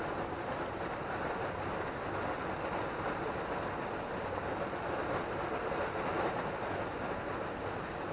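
Steady rushing of a fast, flood-high river current.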